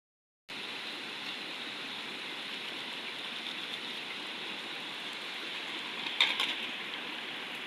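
Steady rushing of running water from a stream, with a brief cluster of clicks about six seconds in.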